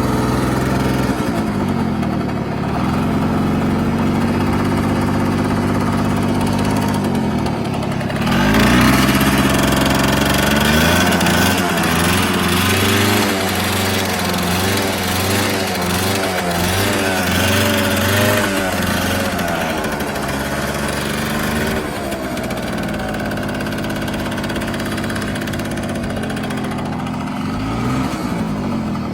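1963 Yamaha YG1's small two-stroke single-cylinder engine running: it idles steadily, is revved up and down repeatedly from about eight seconds in, then settles back to idle, with one short blip near the end.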